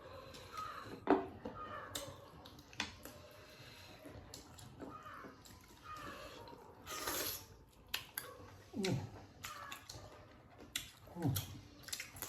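Close-miked eating sounds: wet chewing and lip smacking, with scattered sharp clicks and a few short murmurs.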